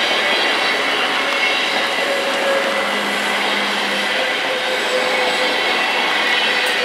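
NS ICMm Koploper electric intercity train passing through a level crossing: a steady, loud rush of wheels on rail with faint thin squealing tones.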